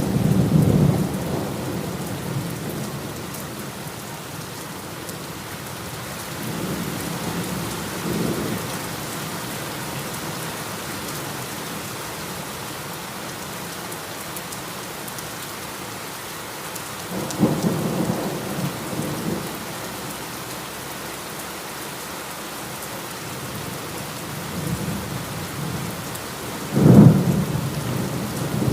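Steady heavy rain with rolling thunder: rumbles swell at the start, about a quarter of the way in and just past the middle, and a sharper, louder crack of thunder comes near the end.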